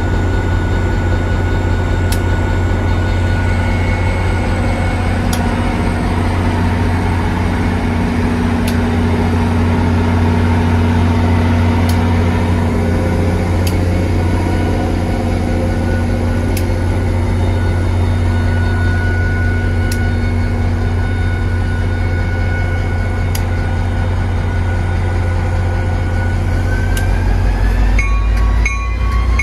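NJ Transit locomotive running beside the platform with a loud steady low hum and steady machine tones. A rising whine builds near the end as it starts to pull away.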